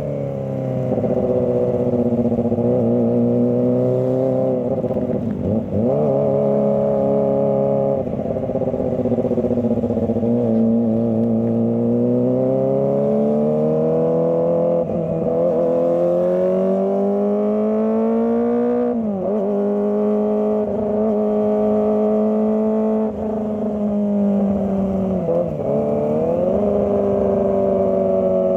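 Kawasaki ZX25R's 250 cc inline-four engine revving up and easing off as the throttle is worked in slow traffic, its pitch rising and falling again and again. There are a few quick drops in pitch where the throttle shuts, about a third of the way in and twice near the end.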